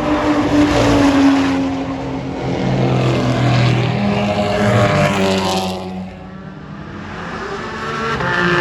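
Race cars passing on track one after another, engine notes swelling as each car approaches and falling in pitch as it goes by, with a lull about six seconds in before the next car comes.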